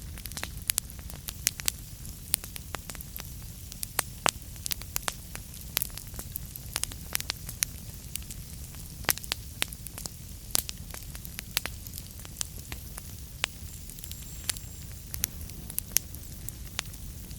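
Wood fire burning in a fireplace: irregular sharp crackles and pops, several each second, over a steady low rumble of the flames.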